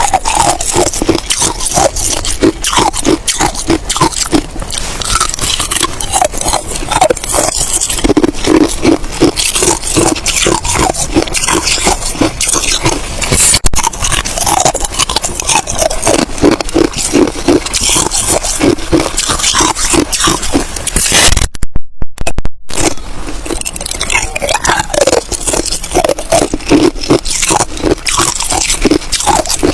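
A person biting and chewing ice close to the microphone: loud, continuous crunching and cracking, broken by a short silent gap about two-thirds of the way through.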